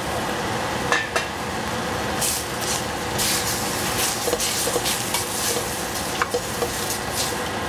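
Broccoli, shrimp and bean thread noodles sizzling in a pot over the flame while being stirred, with a utensil scraping and knocking against the pot now and then.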